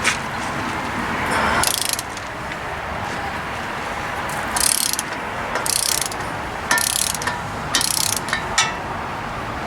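Hand ratchet clicking in a series of short bursts of back-strokes as a wheel bearing spindle nut is tightened down until it stops, seating the bearing.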